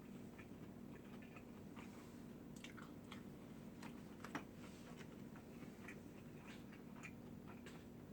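A person chewing and biting food close to the microphone: soft, scattered, wet clicks, with one louder click about four and a half seconds in. A faint steady hum lies underneath.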